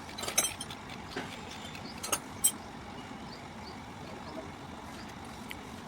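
A few sharp metallic clinks of tools on engine parts in the first two and a half seconds, over a steady background rumble.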